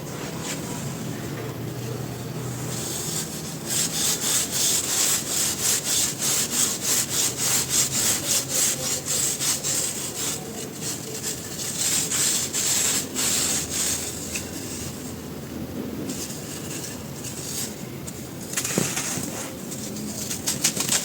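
Dry, dusty crumbly cylinders being crushed and rubbed apart by hand, giving gritty crunching. The crunching turns into a quick, even run of crisp strokes a few seconds in and eases off to softer rubbing about two-thirds of the way through.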